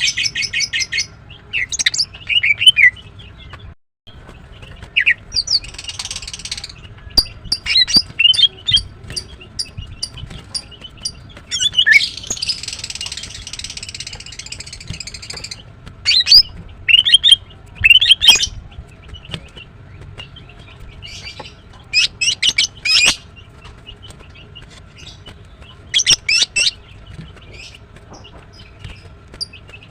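Female greater green leafbird calling: groups of sharp, high chirps and quick trills in irregular bursts, with two longer scratchy, hissing calls, a short one about six seconds in and a longer one of about three seconds near twelve seconds in.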